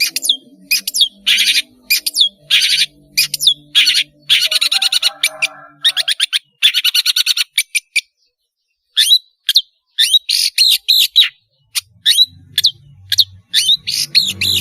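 Long-tailed shrike singing a rapid, varied song: harsh chattering rasps, a fast trill and short sharp whistled notes, with a brief pause about eight seconds in.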